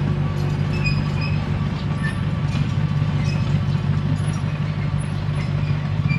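Komatsu D21P crawler bulldozer's diesel engine running steadily under load, with short high squeaks from the tracks recurring every half second or so.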